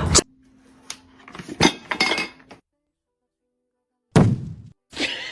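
A few light clinks and knocks, then a silent gap and a sudden loud bang about four seconds in.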